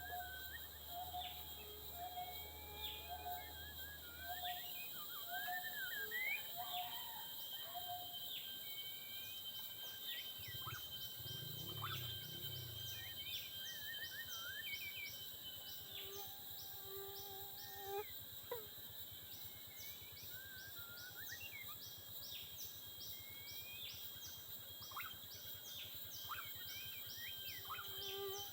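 White-rumped shamas chirping and whistling in short, quick upward-sweeping notes, over a steady high drone of forest insects. A low note repeats about once a second for the first eight seconds.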